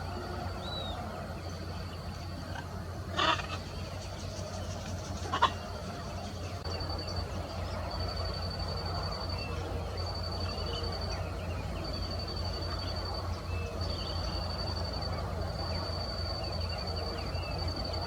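Macaw giving two harsh squawks, a longer one about three seconds in and a shorter one about two seconds later. Behind it runs a steady high-pitched whine that turns into a string of pulsing stretches partway through.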